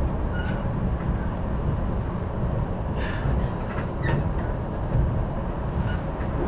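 Inside a Metra commuter train coach in motion: a steady low rumble of the car running along the track, with a few short clicks and knocks about three to four seconds in.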